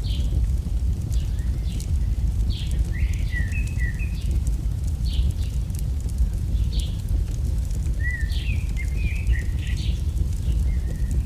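Campfire crackling in sparse sharp pops over a steady low rumble, with birds chirping through it: short high chirps about every second or so, and two longer twittering phrases, a few seconds in and near the end.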